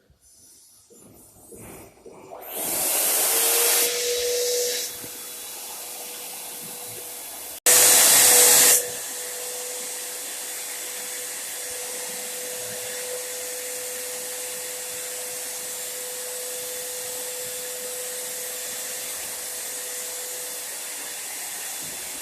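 Paint Zoom electric spray gun running: a steady hiss of air and spray with a motor whine, starting a couple of seconds in. It swells louder twice, briefly about three seconds in and again for about a second near the eight-second mark, then runs on evenly.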